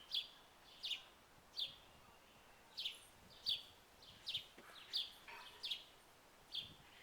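A bird repeating a short, sharp chirp that slides downward in pitch, about nine times at a steady pace of roughly one every three-quarters of a second.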